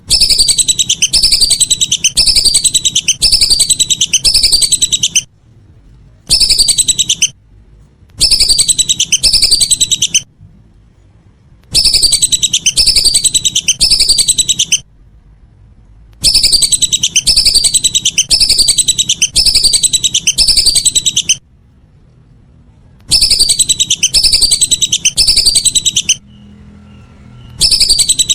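Lesser whistling duck (belibis) calls played as a lure: loud runs of high, falling whistles, about one and a half a second, in bursts of one to five seconds broken by short pauses.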